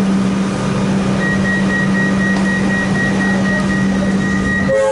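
Electric suburban train running, heard from inside the carriage: a steady low hum with rumbling rail noise, joined by a thin high whine about a second in. Near the end the hum and whine cut off abruptly and a few other steady tones take over.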